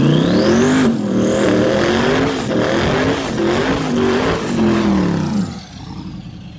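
Twin-turbo Dodge Demon V8 accelerating hard down a drag strip, with a turbo whistle climbing as it takes off. The engine note breaks sharply about a second in, then rises and falls several times before fading away as the car pulls off into the distance.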